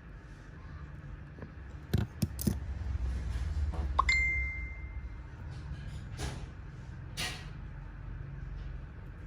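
A few sharp clicks of small hard objects being handled, then a single short ringing ding about four seconds in, followed by two soft rustles.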